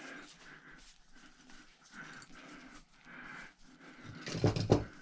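Soft rhythmic breathing, a few breaths a second, with a louder burst of sound about four seconds in.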